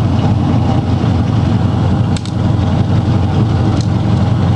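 4x4 truck engine running as the truck drives through the mud, a steady low rumble with a brief knock about two seconds in.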